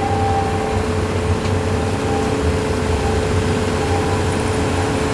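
Miniature amusement-park train running, heard from one of its passenger cars: a steady low rumble of engine and wheels with a steady whine over it.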